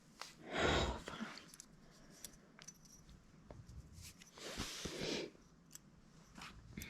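Light metal clicks and scrapes of a piston circlip being worked into the wrist-pin bore of a small two-stroke piston. There are scattered small ticks, with two longer noisy scrapes, one about half a second in and one around four and a half seconds.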